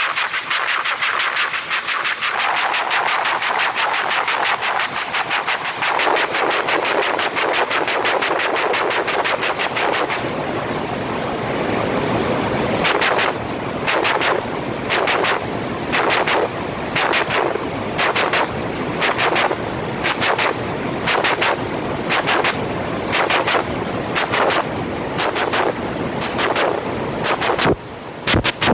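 Textile machine running with a fast, rattling clatter of rapid repeated strikes. About halfway through the rhythm changes to slower, evenly spaced strikes, roughly three every two seconds, over a steady hiss.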